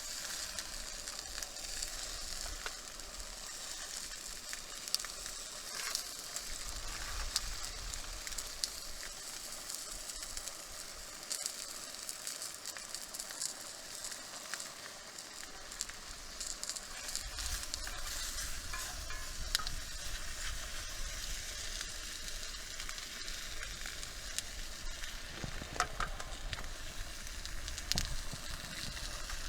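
Campfire sizzling steadily, with scattered small crackles and pops.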